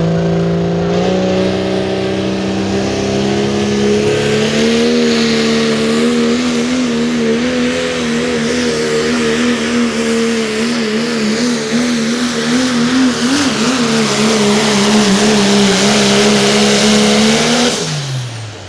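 Limited Pro Diesel pulling truck's engine at full throttle under load. Its pitch climbs at the start, then holds high and wavers through the pass. Near the end the throttle comes off and the revs fall away quickly.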